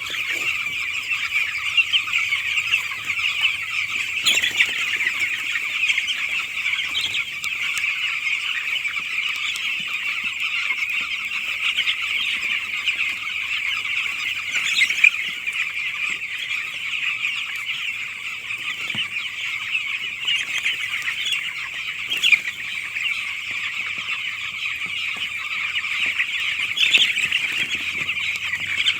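A flock of nine-day-old chicks peeping together in a dense, continuous high-pitched chorus.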